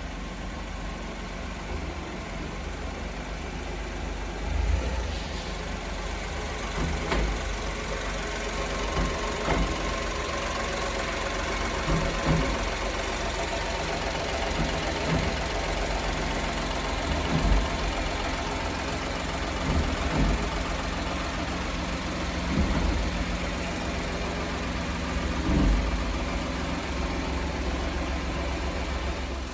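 Daihatsu Hijet kei truck's small three-cylinder engine idling steadily, with a dull low thump every few seconds.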